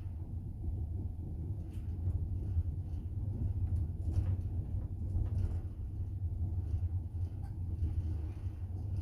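Steady low rumble of a moving double-decker passenger train, heard from inside the carriage, with a few faint, irregular clicks.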